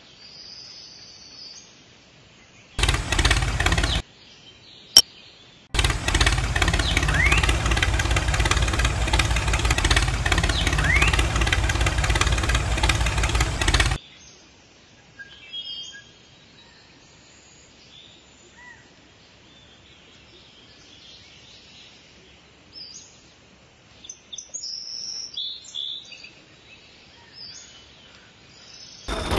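Small birds chirping. A loud, steady noise starts abruptly a few seconds in, stops briefly, returns and cuts off suddenly about halfway through, leaving the chirping again.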